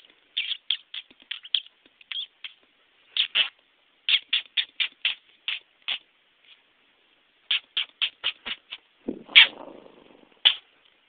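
A person making quick mouth noises at a dog: runs of short, sharp clicks and smacks, several in a row with brief gaps between. About nine seconds in comes one longer, louder, rougher sound.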